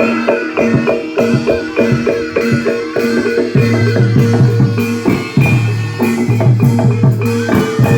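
Javanese gamelan music of the kind that accompanies barongan: fast drumming with repeating struck metallophone notes over held ringing tones. A deep low tone enters about halfway through.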